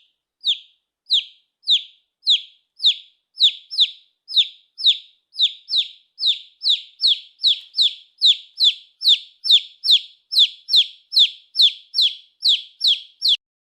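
Chick peeping: a steady run of short, high peeps, each falling in pitch, about two a second.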